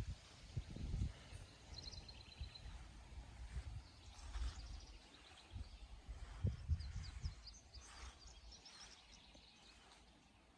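Songbirds singing faintly: a short high trill about two seconds in, then a run of quick high chirps later on. Under them come low, uneven rumbling bumps.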